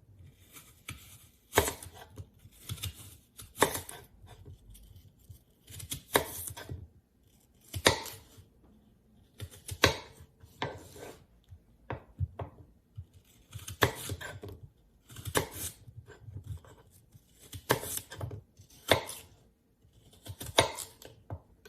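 Kitchen knife slicing an apple on a cutting board: a series of separate knocks as the blade cuts through the fruit and meets the board, about one every second or two with short pauses between slices.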